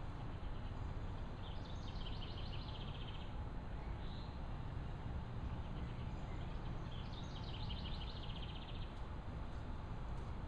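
Steady background noise with a bird twice giving a rapid high trill, each about two seconds long and several seconds apart.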